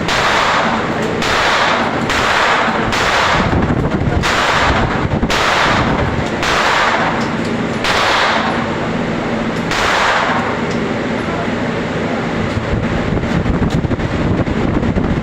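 Gunshots at a shooting range: a string of single shots, about one a second at irregular spacing, each followed by a short ringing echo, with the firing stopping about ten seconds in. A steady low hum runs beneath.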